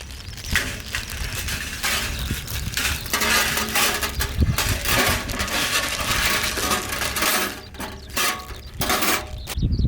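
Thin metal plates of a folding fire pit clinking and rattling in a run of irregular short bursts as they are handled.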